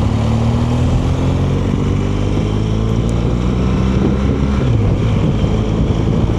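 BMW R1200GS boxer-twin engine running at road speed under a steady hiss of wind and road noise. Its pitch climbs a little over the first couple of seconds and dips briefly about four to five seconds in.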